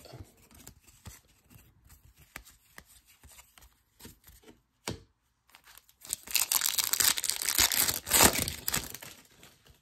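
Faint scattered clicks of cards being handled. Then, about six seconds in, a few seconds of loud crinkling and tearing as a foil trading-card pack wrapper is ripped open.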